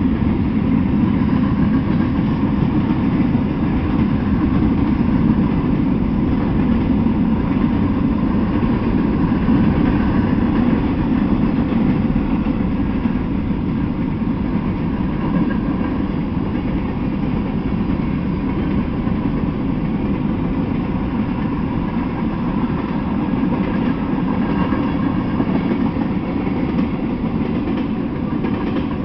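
Freight train of boxcars, covered hoppers and tank cars rolling past, a steady rumble of steel wheels on the rails.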